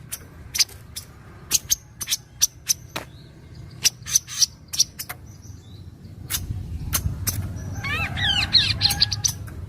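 Kaso-kaso bird calling: a run of short, sharp chip notes at uneven intervals, then a rapid warbling phrase of quick up-and-down notes near the end, over a steady low rumble.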